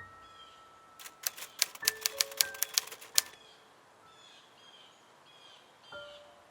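A rapid, uneven run of about ten sharp clicks or claps lasting about two seconds, with a few ringing chime-like notes among them. After it, short high chirps repeat about twice a second.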